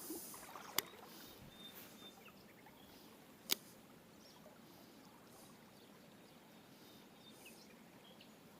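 Quiet riverside ambience: a faint steady rush of water with a few faint high chirps, broken by two sharp clicks, one about a second in and one about three and a half seconds in.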